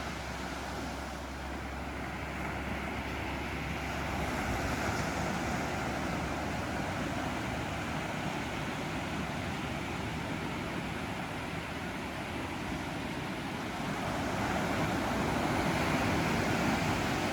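Ocean waves washing onto a beach, a steady rush of surf that swells twice, about four seconds in and again near the end.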